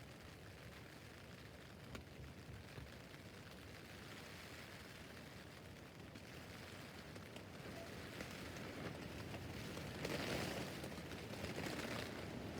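Rain pattering on a tent roof, a steady hiss of drops with scattered single taps, growing heavier and louder over the last few seconds.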